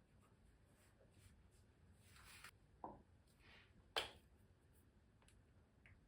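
Near silence with faint handling sounds: a soft rustle about two seconds in, a light knock just before three seconds, and a sharp click about four seconds in.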